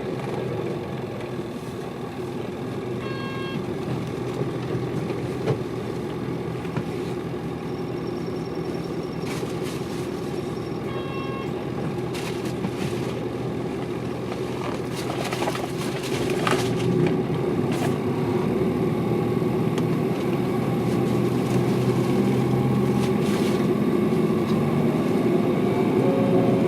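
Hino Liesse small city bus's diesel engine running under way, a steady drone that grows louder about two-thirds of the way through. Brief electronic tones sound twice.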